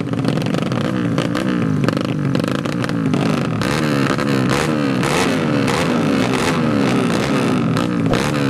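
Underbone motorcycle engines revving hard again and again, the pitch climbing and falling in quick succession with no let-up.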